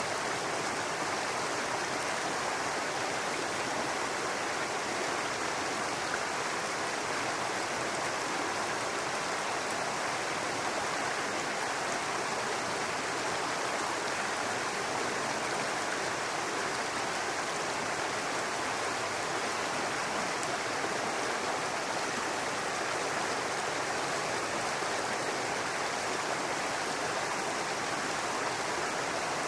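Shallow forest brook babbling: a steady, even rush of running water.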